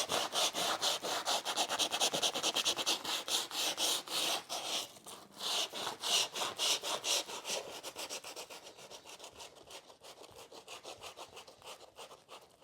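Sandpaper rubbed quickly back and forth over an oil painting, about four scratchy strokes a second, getting quieter over the second half. The oil paint is not yet fully dry.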